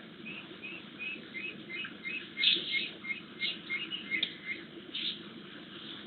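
A bird calling a run of short chirps, about three a second for some four seconds, with a few louder, harsher notes mixed in.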